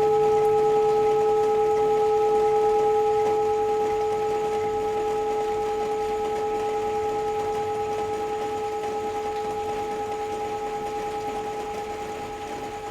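Tibetan singing bowl ringing on after being struck or rubbed: one low note with two higher overtones, slowly dying away with a gentle wavering, over a faint hiss of rain.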